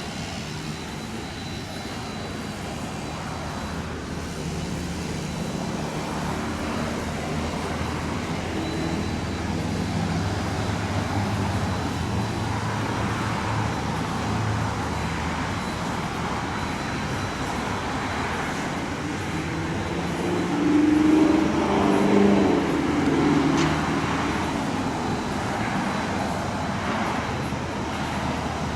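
Motor engines running steadily, with a louder stretch of engine sound about twenty seconds in.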